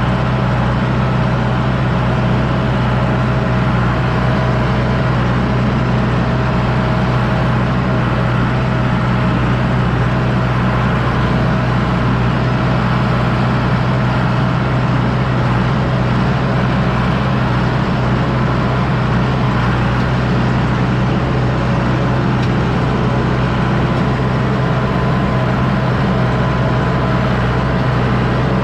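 John Deere 6110D tractor's diesel engine running steadily under load while pulling a disc harrow, a constant low drone that does not change.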